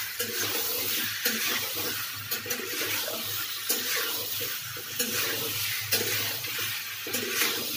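Ash gourd pieces sizzling in hot oil and spice paste in a karahi while a spatula stirs and tosses them, scraping and knocking against the pan again and again over a steady sizzle.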